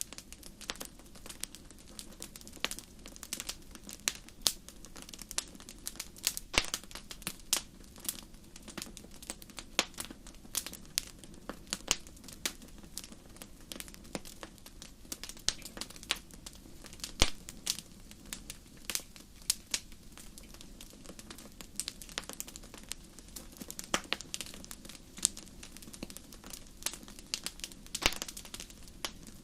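Crackling wood fire: irregular sharp pops and snaps, several a second, over a steady low hiss of the flames.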